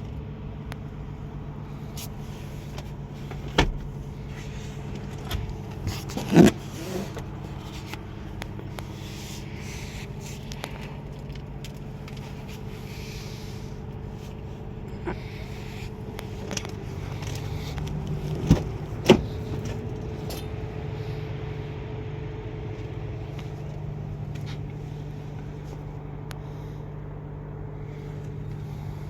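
A steady low mechanical hum with a few sharp knocks and clicks scattered through it.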